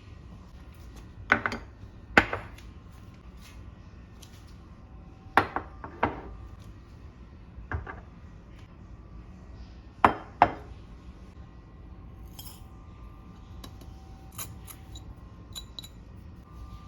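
Kitchenware clinking: about seven sharp knocks of utensils against dishes, mostly in close pairs, each ringing briefly.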